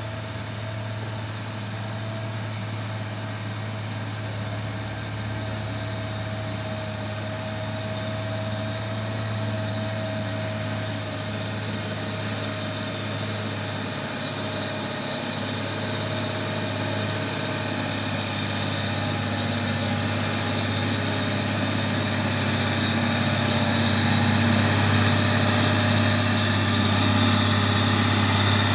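Heavy truck's diesel engine running at a steady pitch, slowly growing louder.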